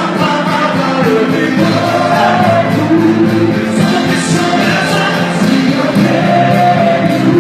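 Live church worship music: a band playing with voices singing.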